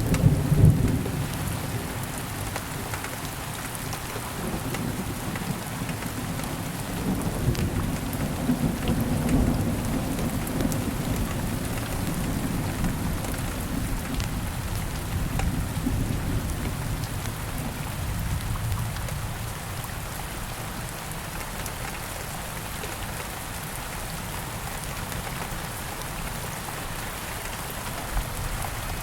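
Steady rain, with a low rumble of thunder at the start that rolls on and fades away over the first twenty seconds or so.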